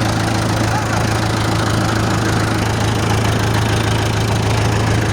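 Delivery truck's engine idling steadily at an even, fast low throb.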